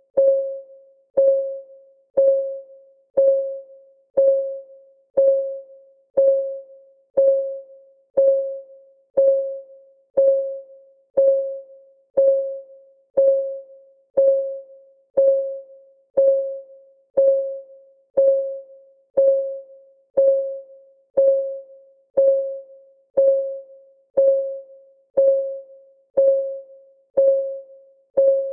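Countdown timer's clock-ticking sound, one tick a second, each tick a short mid-pitched tone that dies away quickly, perfectly even in rhythm and level.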